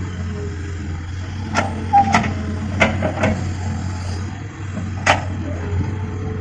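Hitachi Zaxis 210 excavator's diesel engine running steadily under work, with about five sharp knocks of steel and rock as it digs, the loudest about five seconds in.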